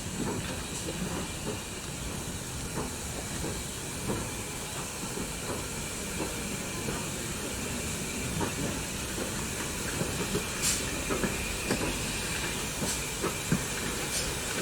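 Steam locomotive with a steady hiss of escaping steam, scattered light knocks, and a few short sharp bursts of steam in the last few seconds.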